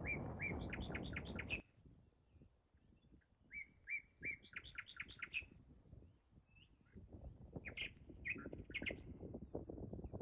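A songbird singing twice: a phrase of a few level notes followed by quick notes climbing higher, with more short calls near the end. A rushing noise plays under the first phrase, cuts off suddenly after about a second and a half, and comes back near the end.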